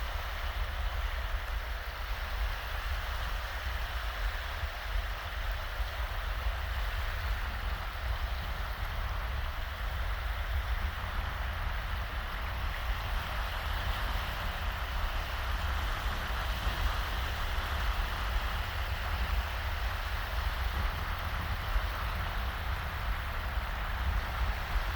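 Small, shallow waves washing steadily onto a sandy beach, an even rushing of water with a low, steady rumble of breeze underneath.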